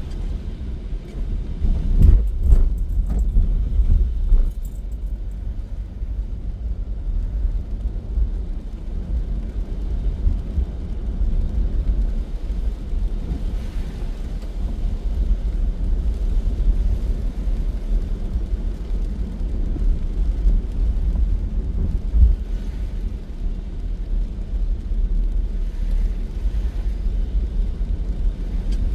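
A car driving, heard as a steady low road rumble, with a few brief knocks about two to four seconds in.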